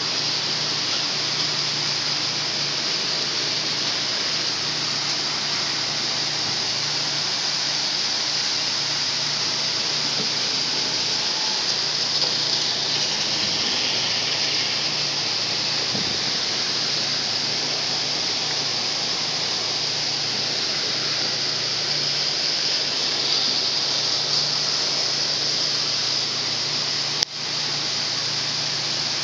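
Heavy downpour: an even, steady hiss of pouring rain. One sharp click near the end.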